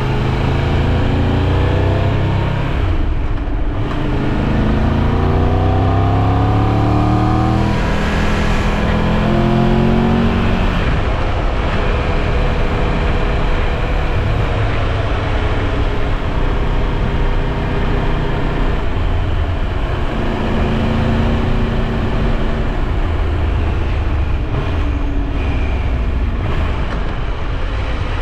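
Triumph Tiger 1200 Rally Pro's three-cylinder engine under way, its pitch climbing as it accelerates through several gears in the first ten seconds or so, then running at a fairly steady cruise.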